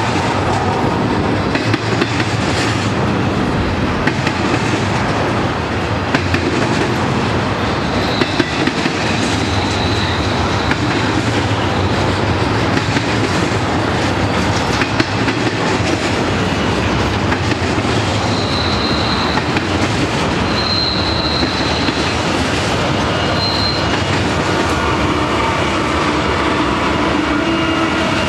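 Freight train rolling steadily past, its steel wheels clattering over the rail joints, with several brief high-pitched wheel squeals in the middle. Near the end the deep, steady running of BNSF GE diesel locomotives comes in close.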